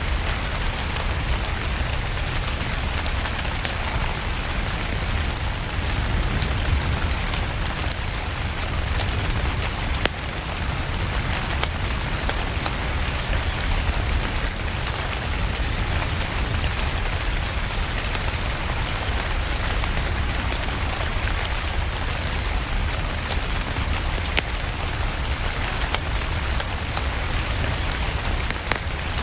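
Steady rain mixed with a crackling wood fire in a fireplace: an even hiss over a deep low rumble, with scattered sharp crackles throughout.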